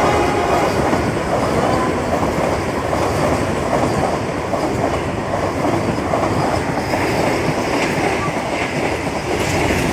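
Vande Bharat Express electric multiple-unit train running through the station at speed: a steady loud rush of coaches and wheels on the rails as the train passes close by.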